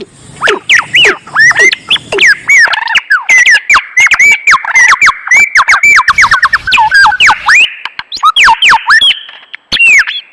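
Rapid run of high, squeaky animal calls, each a short rising-and-falling chirp, several a second, with sharp clicks among them, breaking off shortly before the end.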